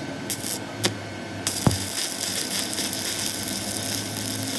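Metal tools clinking a few times and a heavy metallic knock. Then a steady hissing machine noise sets in about a second and a half in.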